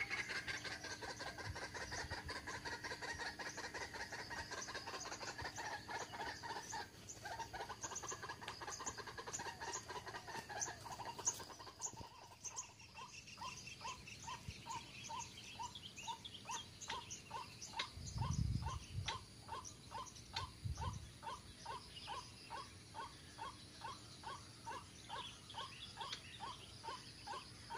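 White-breasted waterhen calls, played as a lure, over insects ticking. The first half is a warbling chorus; about halfway it changes to a steady run of short notes, about two a second. Two low thumps come about two-thirds of the way in.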